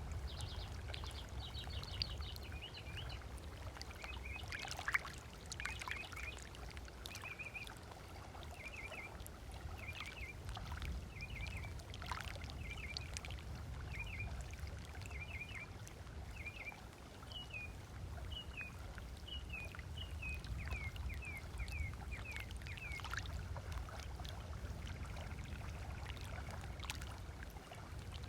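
Small waves lapping on a sandy lakeshore, with a bird calling in a long series of short repeated chirps that stop near the end. A steady low rumble runs underneath.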